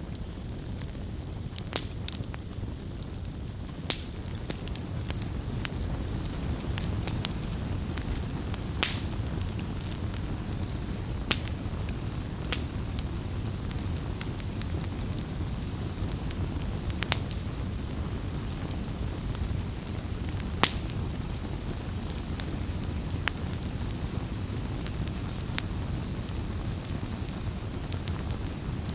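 Wood campfire crackling: irregular sharp pops and snaps, a few louder ones, over a steady low rumble of burning.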